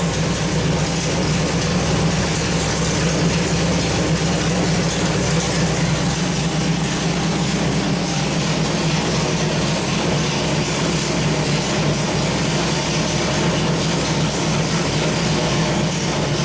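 Small-block Chevrolet 383 stroker V8 running at a steady speed on an engine dynamometer, a loud constant drone with no revving.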